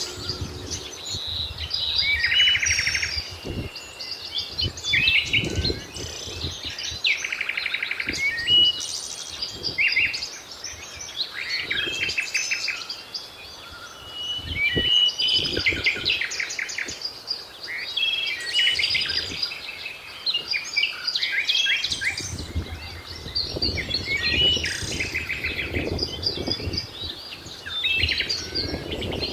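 Several birds chirping and trilling in a natural outdoor chorus, with overlapping calls and quick repeated note series, over a low background rumble.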